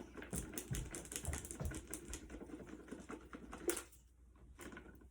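Rapid, irregular light clicks and taps, like small hard objects being tapped or handled, with one sharper tick near the end before they die away.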